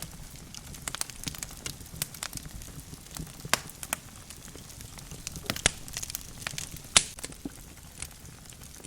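Burning logs in a wood fireplace crackling, with irregular sharp pops over a low steady rumble of the flames; the loudest pop comes about seven seconds in.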